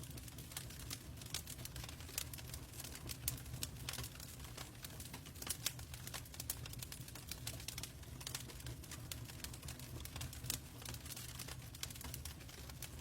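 Log fire crackling in a fireplace: irregular sharp pops and snaps over a low, steady rumble of the burning.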